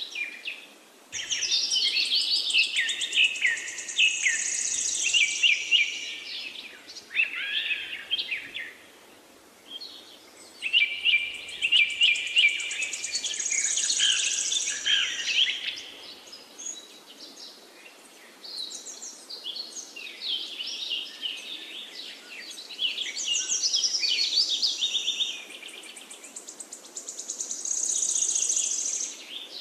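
Songbirds singing: long spells of rapid twittering and trilling, with short pauses between them.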